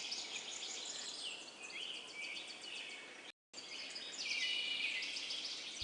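Faint natural ambience of many small birds chirping, with a background of insects. The sound drops out completely for a split second about three seconds in, then resumes.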